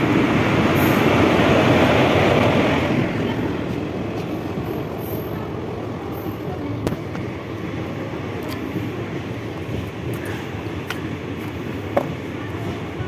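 Steady rumbling noise of a moving vehicle, louder for the first three seconds, with a few faint clicks.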